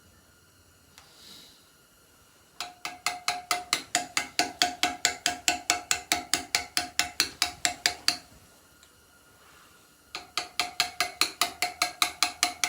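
Hammer tapping a steel chisel into stone in quick, even strokes, about four a second, each with a metallic ring. Two runs of strikes, with a pause of about two seconds between them.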